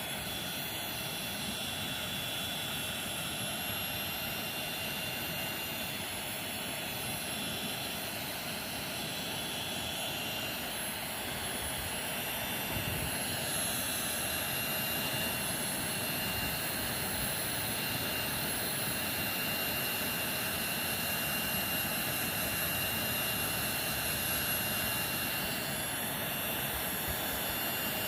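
Hair dryer blowing steadily: an even rush of air with a thin high whine, growing slightly louder about halfway through.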